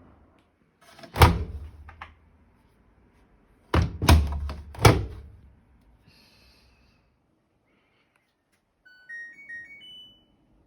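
Door of an LG Tromm front-loading washer or dryer shutting with a loud thunk, then three more thunks in quick succession. Near the end comes a short rising run of electronic beeps, like the machine's control panel powering on.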